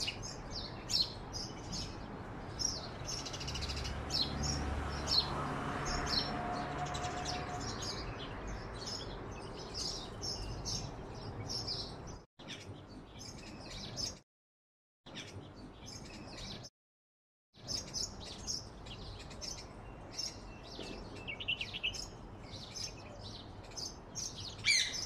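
Small birds chirping and tweeting in quick, repeated calls over a steady background noise. The sound cuts out completely twice, for about a second each time, around the middle.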